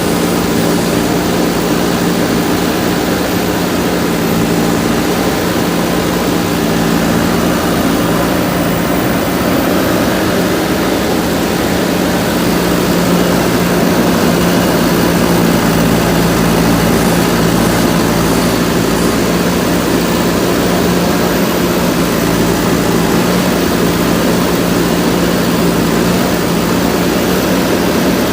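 JCB backhoe loader's diesel engine running steadily, a constant close-up drone that hardly changes in pitch.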